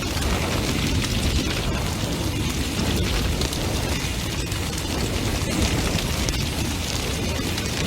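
Large bonfire burning hard: a steady low roar of flames with frequent sharp crackles and pops from the burning wood.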